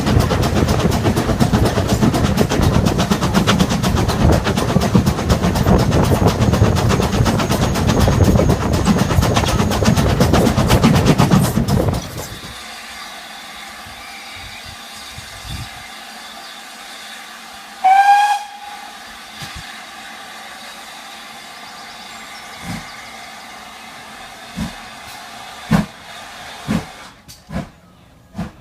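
Steam train running loudly with a dense, rapid rattle, cut off abruptly about twelve seconds in. In the quieter stretch that follows, a steam whistle gives one short toot, and a few scattered knocks sound near the end.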